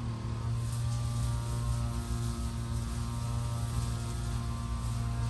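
A steady low hum at one constant pitch comes on right at the start and holds level, with a faint crackling hiss above it.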